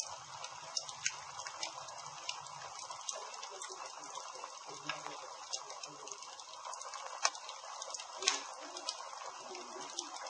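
Campfire burning with a steady hiss and irregular sharp crackles and pops, two of them louder about seven and eight seconds in.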